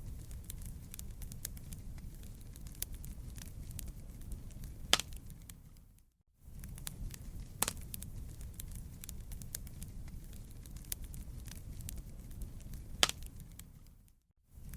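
Wood fire crackling, with frequent sharp pops over a low steady rumble and two louder snaps. The sound dips out briefly twice, about six seconds in and just before the end, like the seam of a looped recording.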